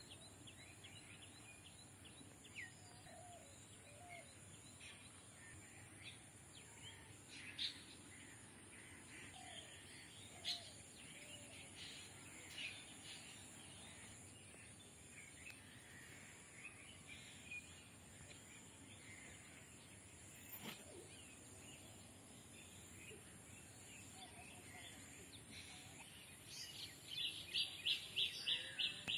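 Birds calling faintly, scattered short chirps, with a fast repeated call of about five notes a second starting near the end, the loudest sound here.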